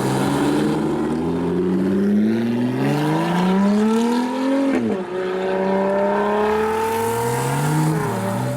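A car engine accelerating hard, its pitch climbing steadily through a gear, dropping sharply at an upshift about five seconds in, then climbing again with another shift near the end.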